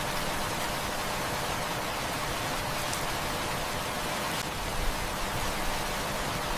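Heavy rain falling steadily, an even hiss, with a few faint pops from a crackling wood fire.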